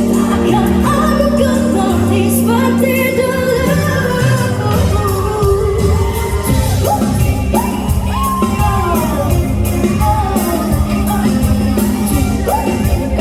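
A female singer performing a pop ballad live with a band; held bass notes give way to a full drum beat about four to five seconds in.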